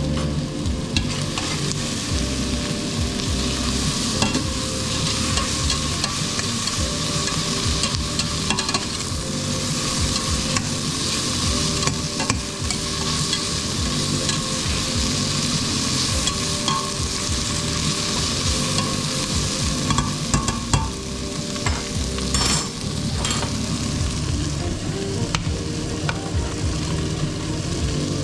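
Food frying in a pan, sizzling steadily, while a utensil stirs and scrapes it with scattered light clicks.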